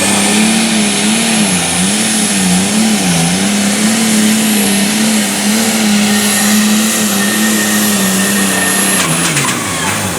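Super stock pulling tractor's turbocharged engine running flat out under load, its pitch wavering up and down, with a high steady turbocharger whine over it. About nine seconds in, the engine comes off the throttle and its pitch drops away.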